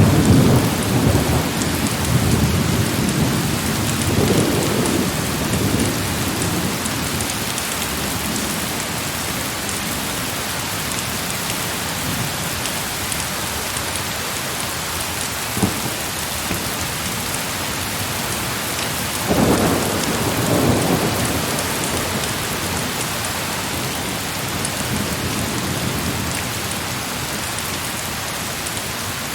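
Heavy, steady rain with rolling thunder. A rumble swells at the start, another about two-thirds of the way through and a fainter one near the end. One sharp crack sounds about halfway.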